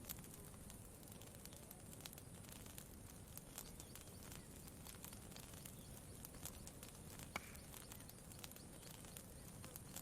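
Faint campfire crackling: scattered small pops at irregular intervals, one a little sharper about seven seconds in, over a low steady rumble.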